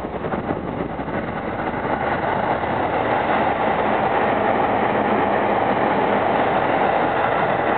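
Limited express train passing through the station without stopping: a steady rushing rumble of wheels on the rails, a little louder from about three seconds in.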